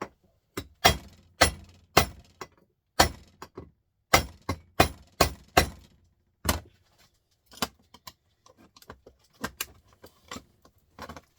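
Hammer striking a small printer motor's metal casing held in a vise: about a dozen sharp, irregular metallic blows in the first seven seconds, then lighter taps and clinks. The blows are loosening the motor's end cap so it can be prised open.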